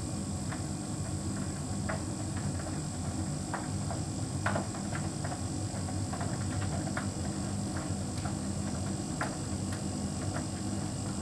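Hotpoint heat pump tumble dryer running mid-cycle: a steady low hum from the drum and motor, with irregular light ticks scattered through it.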